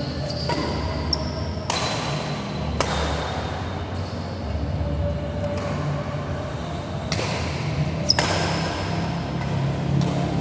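Badminton rally in a large echoing hall: four sharp racket hits on the shuttlecock, a second or so apart and then after a longer gap, with brief high shoe squeaks on the court floor. A steady low rumble of the hall and crowd runs underneath.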